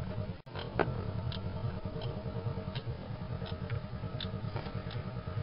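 Car engine idling low and unevenly, at about 600 rpm instead of the normal 800-plus, with the motor stumbling. A few light ticks sound over it, the clearest about a second in.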